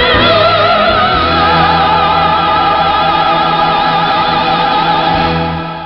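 A female singer holding a long final note with wide vibrato over orchestral accompaniment. The music fades away near the end.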